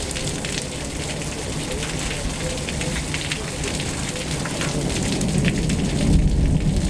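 Heavy thunderstorm rain: a steady hiss full of sharp drop ticks, with a low rumble swelling near the end.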